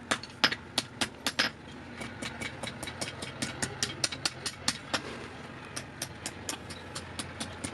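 Hand hammer striking hot steel on an anvil in a steady rhythm of about three blows a second, with a short pause after the first few blows, over a steady low hum.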